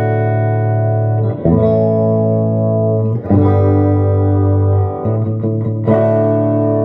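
Electric guitar played through a Marshall JCM2000 TSL100 valve amp head on its clean channel with reverb: strummed chords left to ring, with a new chord about every one and a half to two and a half seconds.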